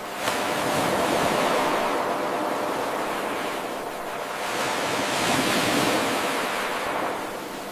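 Ocean surf washing in a seamless eight-second loop. The sound jumps up abruptly a moment in as the loop restarts, swells again about five seconds in, and eases off near the end.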